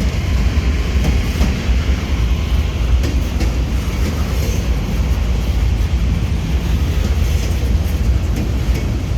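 Norfolk Southern freight train rolling past close by: a steady low rumble of wheels on the rails, with occasional faint clicks.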